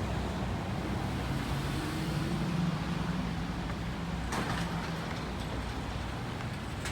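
Motor vehicle engine running, a steady low hum and rumble, with a brief rattle a little over four seconds in.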